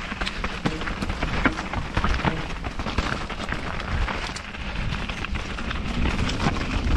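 Canyon Spectral AL6 enduro mountain bike riding down a wet, rough trail: constant rolling tyre and wind noise with frequent sharp clicks and knocks from the bike rattling over the ground.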